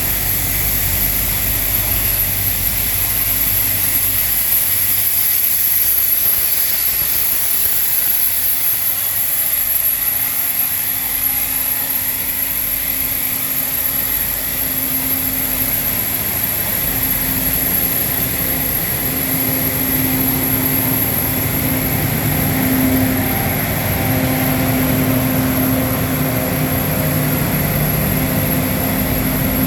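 Steam-hauled train at the station: a loud, steady rushing noise, with a low steady hum that comes in about halfway through.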